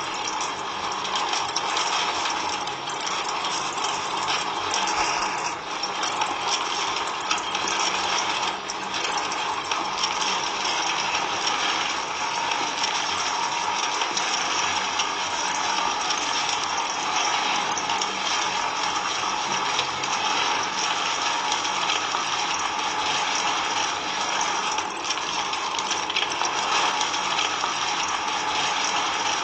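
Small electric motor and gears of a homemade mini model machine running continuously with a steady rattle.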